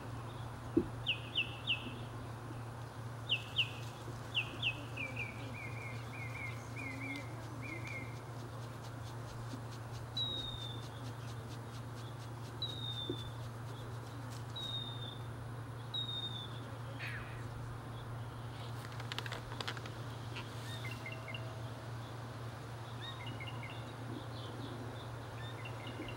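A songbird calling: quick groups of three or four short chirps repeated every second or so, then single down-slurred whistles about every two seconds, over a steady low hum.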